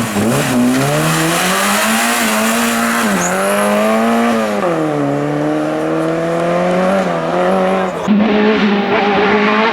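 A hill-climb race car's engine at full throttle, its pitch rising through each gear and dropping back at the upshifts. About eight seconds in, the sound changes abruptly to a steadier engine note.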